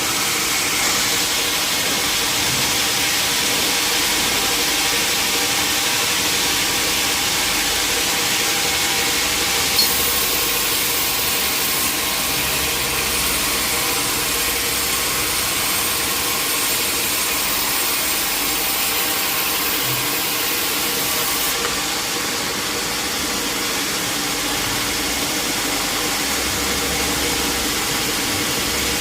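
Sawmill machinery running with a steady, even mechanical noise, with one small sharp tick about ten seconds in.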